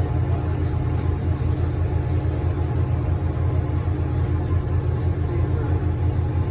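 Tour boat's engine running steadily, a low rumble with a fast, even throb.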